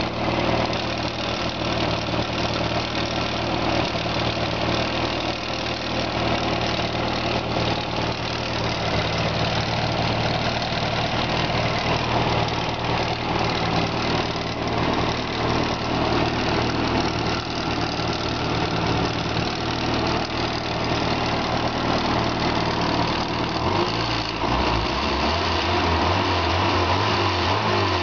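Nissan KA24E 2.4-litre inline-four engine idling steadily with an odd noise that the owner cannot place; he wonders whether it comes from the valve cover. The low hum shifts about four seconds before the end.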